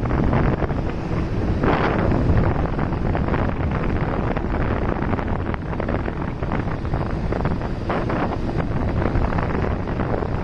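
Wind buffeting the microphone of a moving motorcycle, a steady low rumble, with the bike's engine and road noise running underneath.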